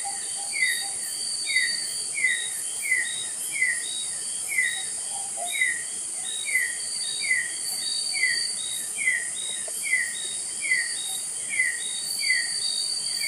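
Forest insects: a steady high-pitched drone, with a short falling chirp repeated evenly about three times every two seconds.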